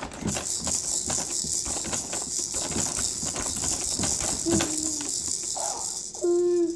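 A baby's noise-making: a rapid, crackly, hissing rattle for about six seconds with a couple of short voiced squeaks, then a loud held vocal note near the end.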